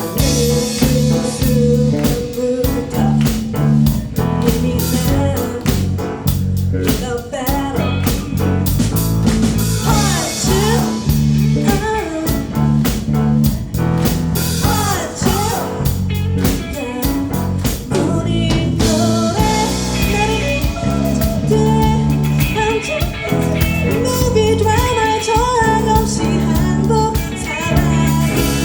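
Live rock band playing a bluesy song: drum kit, bass and electric guitars, with singing.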